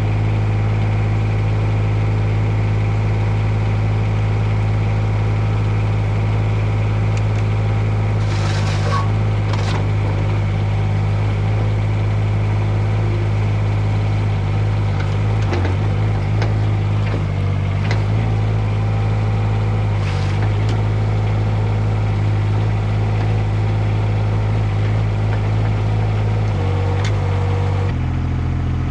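Mini excavator's three-cylinder diesel engine running steadily. Its note shifts about eight seconds in and again near the end, with a few short knocks and clanks.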